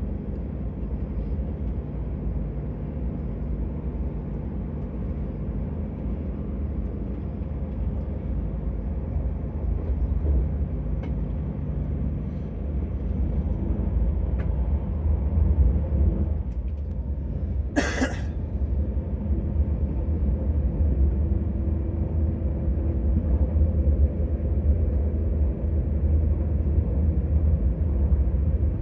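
Omnéo Prémium double-deck electric train running, a steady low rumble heard from inside the carriage. A brief sharp hiss comes about two-thirds of the way through.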